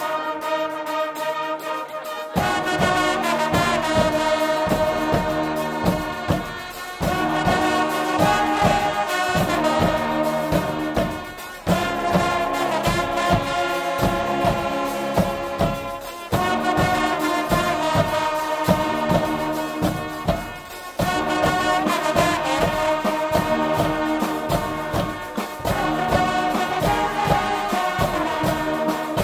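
Guggenmusik band playing loud brass (trumpets, trombones) over a pounding drum and cymbal beat. The drums come in about two seconds in.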